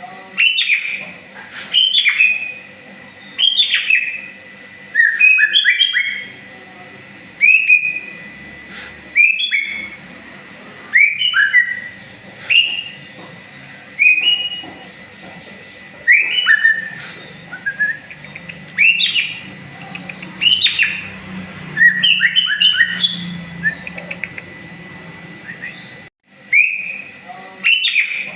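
White-rumped shama (murai batu) singing: short, loud whistled phrases of sliding notes, one after another every second or two, with a brief pause near the end. A contest-prospect bird in full song while growing its new feathers after the moult.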